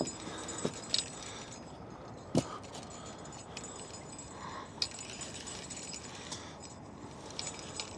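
Fishing rod and reel being handled while a small fish is brought in: a few scattered sharp clicks, the loudest about two and a half seconds in, over a steady low hiss.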